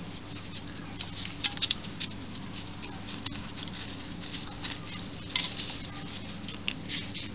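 Small metal parts and hand tools handled during lathe disassembly: light, irregular clicks and taps, a few at a time, over a steady low hum.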